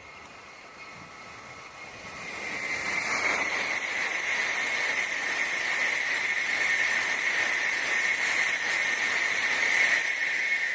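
Tokaido Shinkansen N700-series bullet train passing at speed: a rising rush of air and running noise that holds loud as a steady, high-pitched hiss for about seven seconds, then falls away near the end.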